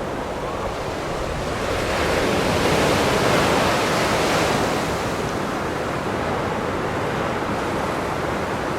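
Ocean surf: storm waves breaking, with wind noise on the microphone. The surf swells louder about two seconds in and eases off again after about five seconds.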